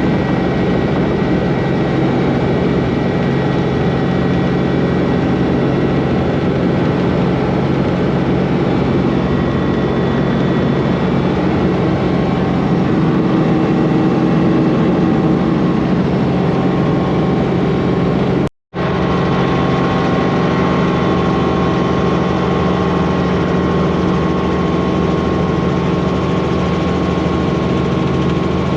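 Robinson R44 helicopter's piston engine and rotor running steadily at a constant pitch, with one brief cut to silence about two-thirds of the way through.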